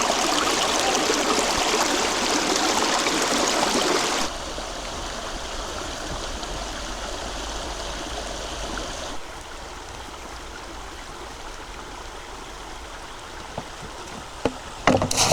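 Flowing river water, a steady rushing that drops suddenly in level about four seconds in and again about nine seconds in, with a few faint knocks near the end.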